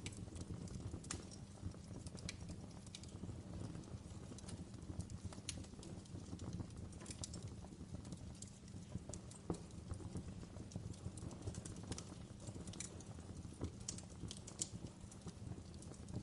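Wood fire burning in a fireplace: a low steady rumble of flames with irregular crackles and sharp pops.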